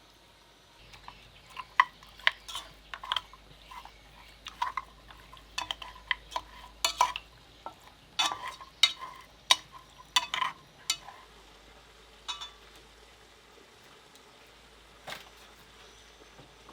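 A utensil clinking and scraping against cookware, in irregular sharp knocks with a slight metallic ring for about ten seconds, then two more isolated clinks.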